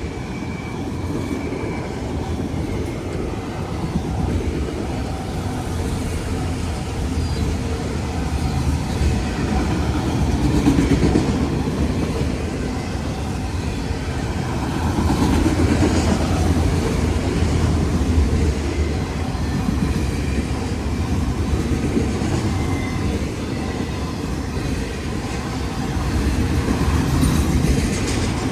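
Freight train rolling steadily past, its cars making a continuous low rumble with wheel clicks over the rails. The sound swells a little twice in the middle.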